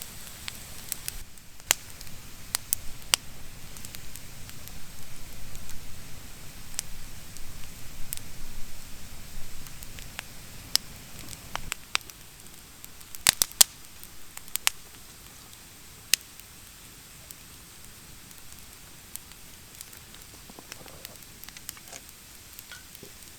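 A fire of damp, freshly cut wood crackling, with sharp pops scattered throughout. A low rushing sound runs under it and drops away about twelve seconds in, leaving quieter crackling.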